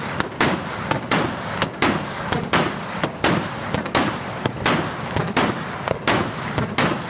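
Sustained gunfire from sailors' weapons: loud single shots at an even pace of about one every 0.7 seconds, each trailing off in an echo, with fainter shots in between.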